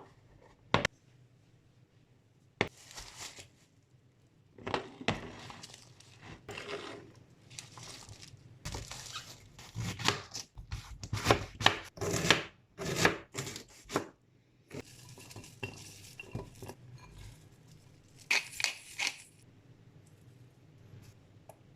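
Kitchen food-preparation sounds: irregular knocks and clatters of a knife, utensils and dishes, mixed with short rasping cuts, busiest in the middle and dying away near the end.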